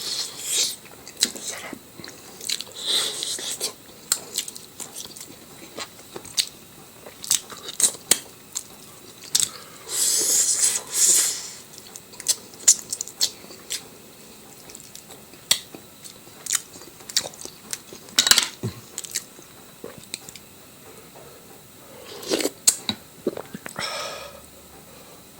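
A person chewing and biting food, with many sharp crunches and clicks of the mouth. A louder, longer stretch of crunching comes about ten seconds in.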